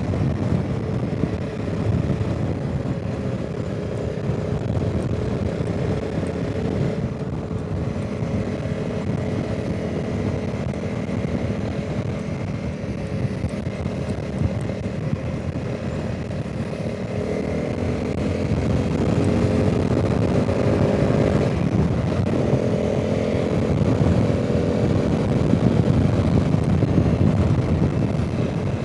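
Honda CRF300 Rally's single-cylinder engine running under way, with wind noise rushing over the microphone. Past the middle the engine pitch climbs steadily as it accelerates, drops at a gear change, and climbs again.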